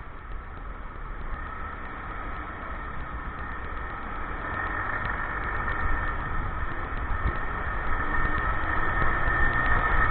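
Motorcycle engine running under way, with a low wind rumble on the microphone, getting steadily louder through the second half.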